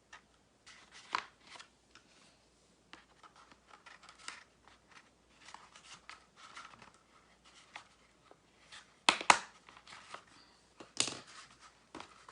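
Crumpled paper being handled and pressed into place: scattered rustles and crinkles with a few sharper crackles, the loudest about nine seconds in and again about eleven seconds in.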